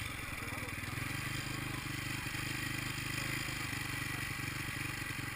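Motocross sidecar outfits' engines running steadily at a distance, a rapid even buzzing drone.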